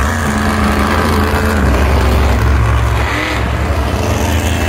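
Monster truck engine running loudly with a deep, steady rumble.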